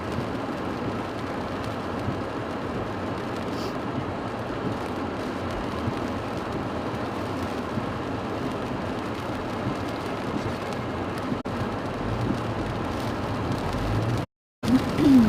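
Steady noise inside a car cabin in a storm: the heater fan blowing hard with rain on the car. Near the end a brief louder sound with a quick rise and fall in pitch comes between two short dropouts of the audio.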